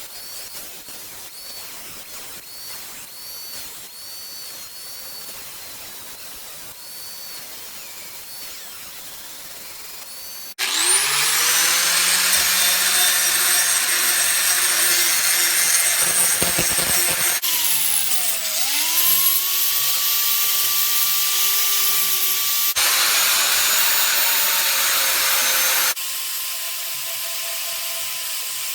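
A small electric grinder spins up with a rising whine about ten seconds in and grinds a forged spring-steel knife blade with a loud, harsh hiss. Its pitch dips under load and recovers, in several abrupt edited segments, and it ends in a quieter steady whine. Before that, a softer scraping noise of hand work on the metal.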